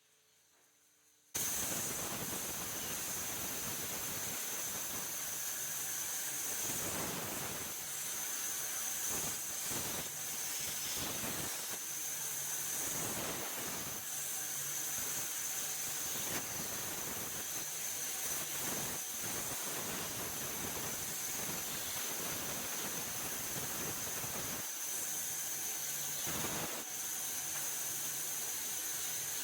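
Wood lathe running, with a tool cutting into the spinning wood: a steady hiss over a constant high whine, swelling and easing every second or two. It starts abruptly about a second and a half in.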